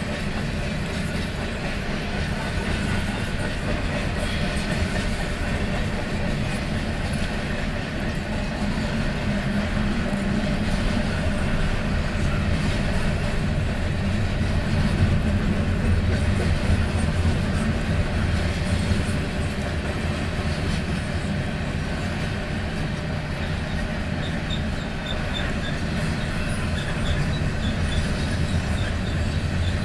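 Pan Am Railways freight train rolling past: a steady low rumble of cars on the rails, with a few faint high squeals near the end.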